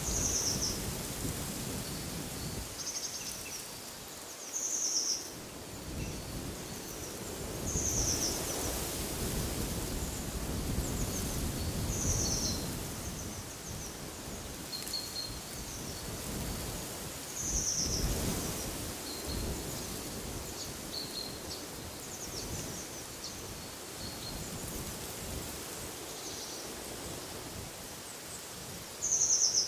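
A bird calling over and over with short high chirps every few seconds, over wind gusting in low rumbling swells.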